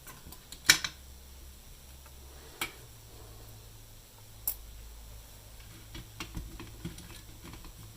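A few scattered small clicks and taps of the radio chassis, case and screws being handled, over a faint steady low hum.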